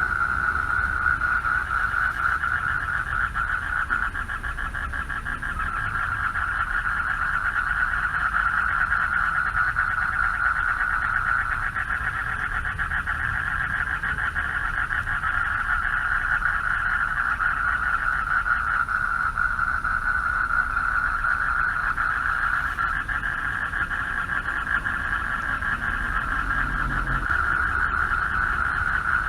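Chorus of male frogs calling for mates at a pond: a dense, unbroken mass of rapidly pulsing calls, with a low rumble underneath.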